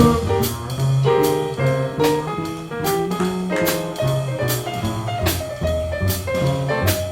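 Live jazz combo playing a swing tune: piano over a bass line, with drums keeping time on the cymbals.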